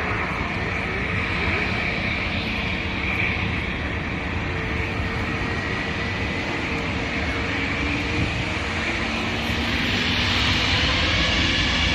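Airliner engines running steadily, with a rising whine and growing loudness in the last few seconds.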